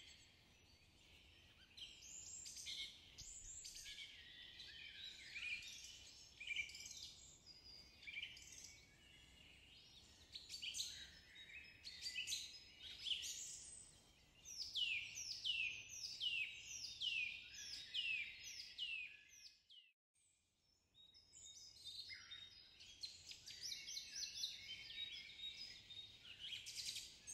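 Small birds chirping and twittering, with a run of quick falling chirps in the middle. The birdsong drops out for about a second two-thirds of the way through, then resumes.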